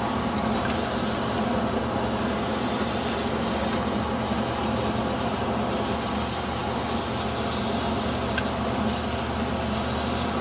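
Steady engine and road noise of a moving vehicle, heard from inside, with a low hum and a few faint ticks.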